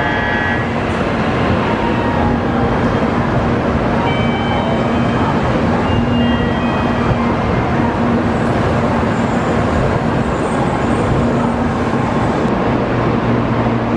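Shinkansen train standing at the platform with its on-board blowers running: a steady, loud rush of air with a low hum that comes and goes.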